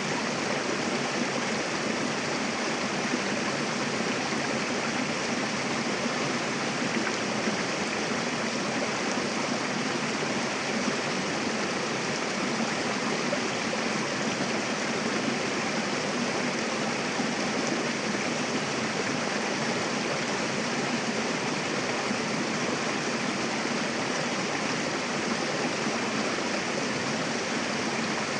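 Mountain river rushing over rocks: a steady, even wash of flowing water without breaks or changes.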